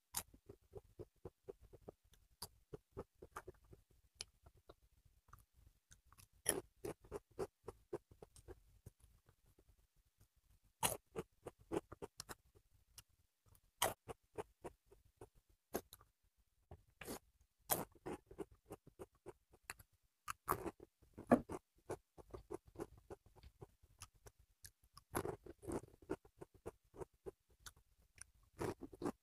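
A person chewing food close to a clip-on microphone: short mouth clicks and smacks come in scattered clusters, with quiet gaps between.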